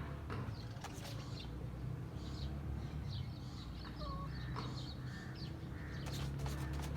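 Birds calling: scattered short high chirps and a few brief caw-like calls, over a steady low hum.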